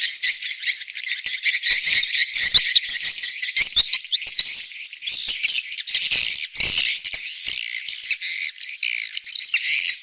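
Edible-nest swiftlets twittering: a dense, unbroken chorus of high chirps and trills with scattered sharp clicks. It is a swiftlet breeding call of the kind played in a nest house to draw swiftlets in.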